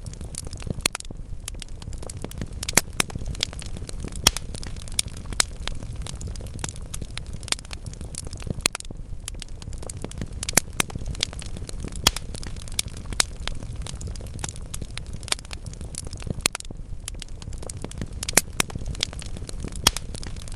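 Wood logs burning in a fireplace: a steady low rumble of flame with irregular crackles and sharp pops, several a second.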